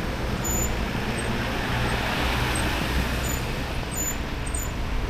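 Steady rush of wind and tyre noise from a moving e-bike, with road traffic in the background and faint short high chirps now and then.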